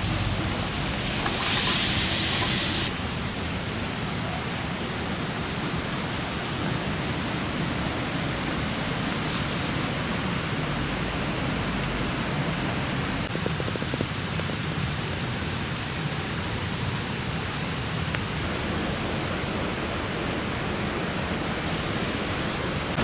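Steady rushing roar of a rain-swollen river in flood, with a brighter hiss over it that stops abruptly about three seconds in.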